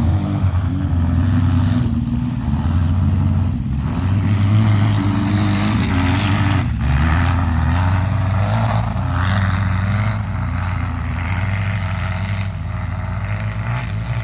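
Air-cooled Volkswagen flat-four engine running under load while driving through snow, its pitch rising and falling with the throttle.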